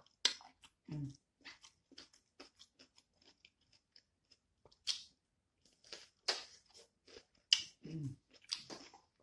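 Close-miked chewing of raw cucumber: irregular crisp crunches and wet mouth and smacking sounds, with a few louder crunches in the second half.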